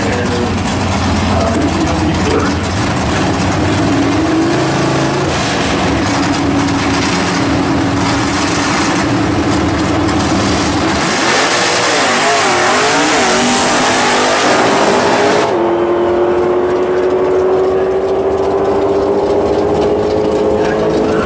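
Muscle-car V8 engines at a drag strip: cars running at the starting line with a steady engine note, then a full-throttle launch whose pitch wavers under a rising roar. About two-thirds of the way through the sound changes abruptly to another engine held at a smooth, slowly rising pitch.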